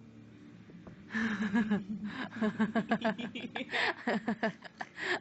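People laughing in quick repeated bursts, starting about a second in and going on to the end.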